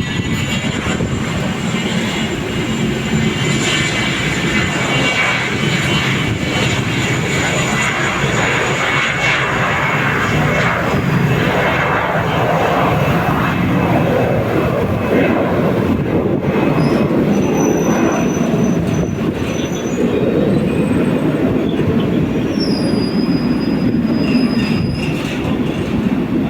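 Cessna Citation S/II business jet's twin Pratt & Whitney Canada JT15D turbofans at takeoff power: a loud, steady rush of jet noise with a high whine that sinks slightly in pitch over the first few seconds.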